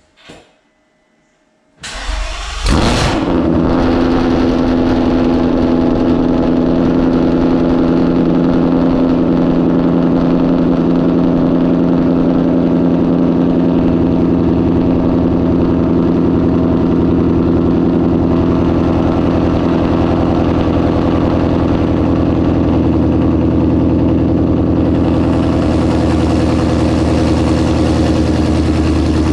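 Cold start of a Roush-supercharged 2018 Ford Mustang GT's 5.0-litre V8: a brief crank about two seconds in, the engine catching with a short rev flare, then settling into a loud, steady idle.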